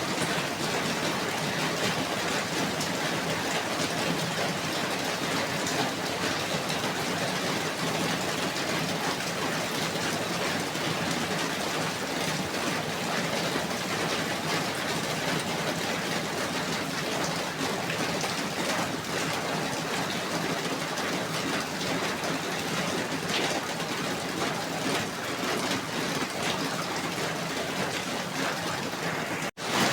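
Steady rain falling, an even hiss of many drops with no rhythm. The sound cuts out for an instant near the end, then comes straight back.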